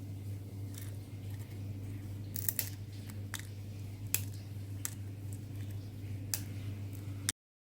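Six or so sharp, separate clicks or taps over a steady low hum, cutting off to silence at the very end.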